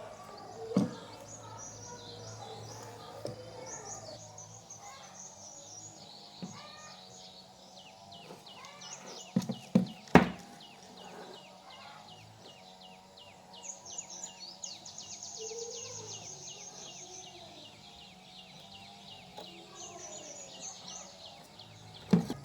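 Small birds chirping and trilling, with a few sharp knocks, the loudest a quick cluster about ten seconds in.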